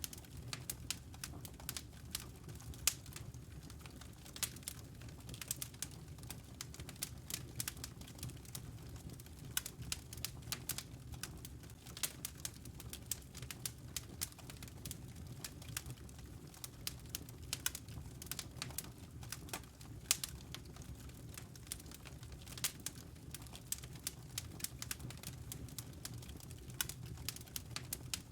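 Fireplace wood fire crackling and popping: many quick, irregular snaps over a steady low rumble of the burning fire.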